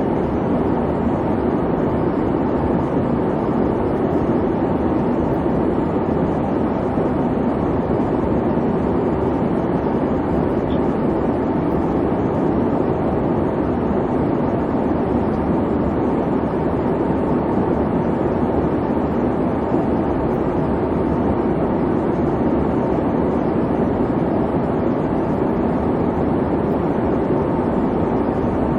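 Airplane cabin noise: the engines and airflow make a steady, even rumble, dull and deep with little hiss.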